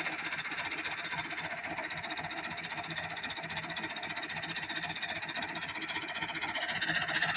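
Massey Ferguson 375 tractor's diesel engine running with a steady, rapid clatter; near the end the note drops a little and it gets louder, as if the engine is taking more load.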